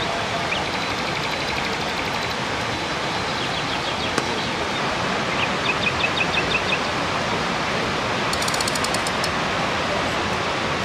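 Steady rush of the Dzhuryn River waterfall, an even, unchanging noise of falling water. Over it a small bird calls several times in short runs of quick, high chirps.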